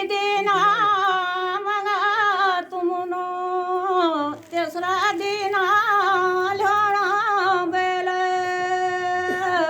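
A woman singing or humming a slow melody with wavering, ornamented held notes, in three phrases, ending on a long steady note.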